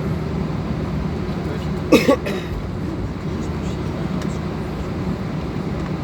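Steady drone of an Airbus A320's jet engines. About two seconds in, a short, loud two-part vocal sound cuts across it.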